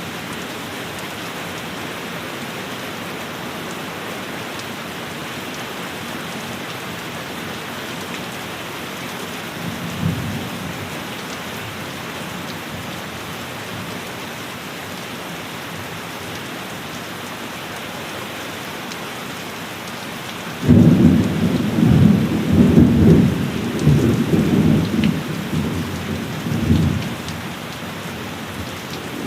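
Steady heavy rain falling, with a brief low rumble of thunder about a third of the way in. Near the end a loud thunderclap breaks in suddenly and rolls on in waves for several seconds before fading back under the rain.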